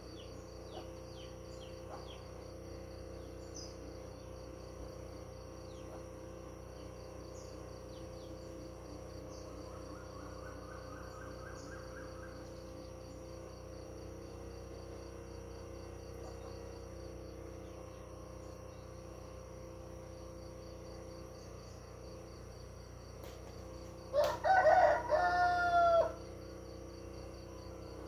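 A rooster crows once near the end, a loud call of about two seconds, over a steady pulsing insect trill and a few faint bird chirps.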